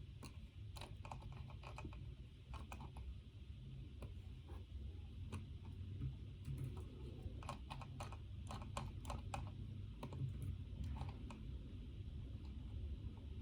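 Typing on a computer keyboard: irregular runs of keystrokes, busiest in the second half, over a steady low hum.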